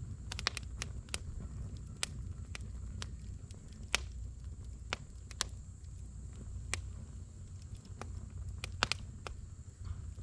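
Firewood burning in a campfire, crackling with irregular sharp pops, a few bunched together just after the start and again near the end, over a low steady rumble.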